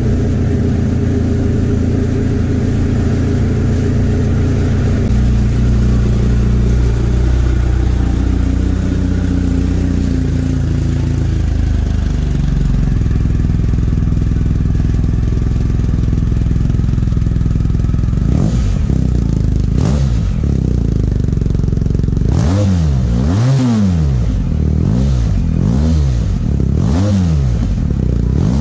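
BMW R 1250 GS Adventure's boxer twin idling through an Akrapovic exhaust. In the last several seconds it is revved repeatedly, the pitch rising and falling about five times.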